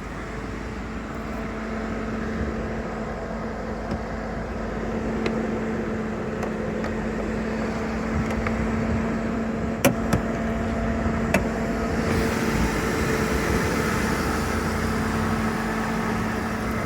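2002 Ford Thunderbird's 3.9-litre aluminium dual-overhead-cam V8 idling steadily. A few sharp clicks come about ten seconds in.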